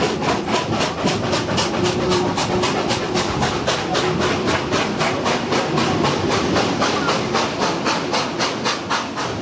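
Steam locomotive 3642, a NSW C36 class 4-6-0, working steadily at speed, its exhaust beating evenly at about four to five beats a second over the running noise of the train.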